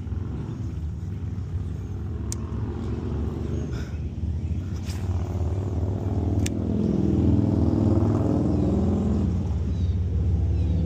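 Road traffic on the bridge overhead: a steady low drone that swells as a vehicle passes, from about six to ten seconds in. A few brief sharp clicks come over it.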